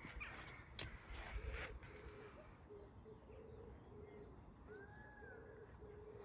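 Faint, repeated low bird calls with one rising-and-falling call about five seconds in, plus a couple of soft knocks and some rustling in the first two seconds.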